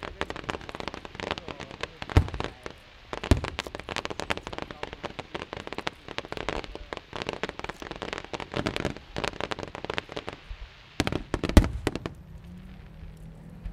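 Fireworks going off: dense, rapid crackling pops with a few heavier bangs, the loudest about eleven and a half seconds in. The crackling thins out near the end.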